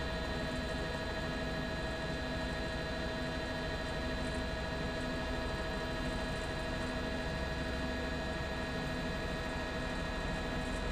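Steady drone of a helicopter heard from on board: a low rumble with several fixed whining tones, unchanging throughout.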